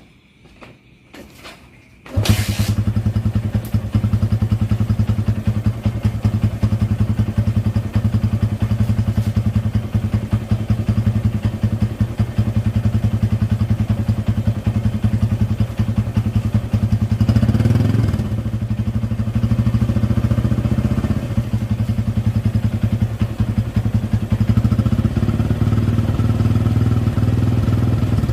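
Honda Verza motorcycle with an aftermarket SCD Euro exhaust: a few light clicks, then the single-cylinder engine starts about two seconds in and idles steadily through the exhaust. It is revved up briefly a little past the middle, then drops back to idle.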